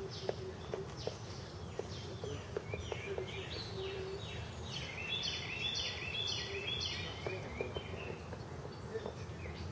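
A songbird singing a fast run of short repeated chirps for several seconds, starting about three seconds in, over a steady low background rumble of outdoor noise.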